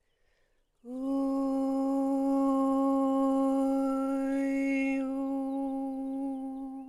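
A woman humming one long, steady note as a meditative toning, starting about a second in and held for about six seconds.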